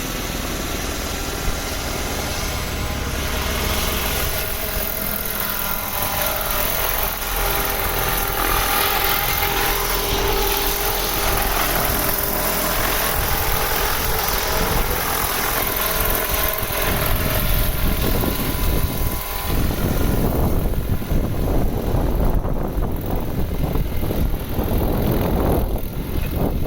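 Crop-spraying helicopter flying over a field, a steady engine and rotor sound with a faint whine. In the last third a louder low rumble, with wind on the microphone, takes over.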